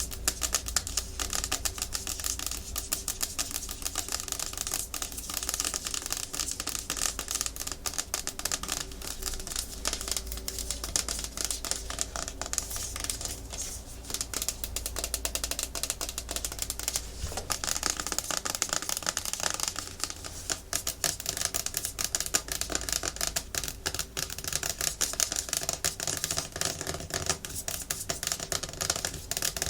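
Natural fingernails tapping fast and hard and scratching on a hard plastic surface: a dense, rapid run of clicks with scratchy rasping between them.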